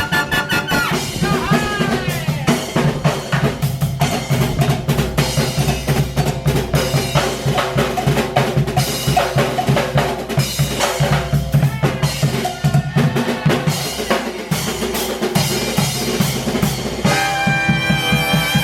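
Live brass band in a drum-led passage: fast, dense drumming, with some held notes beneath it. About 17 seconds in, the horns come back in with held chords.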